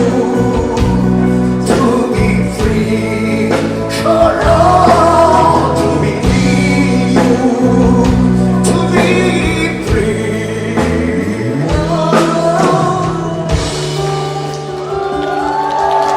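Live band music with singing: a slow, sustained song with long held bass notes and choir-like vocals.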